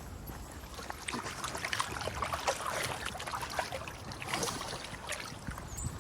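Scattered, irregular light clicks and taps of footsteps and small dogs' paws on a walk, over a faint hiss.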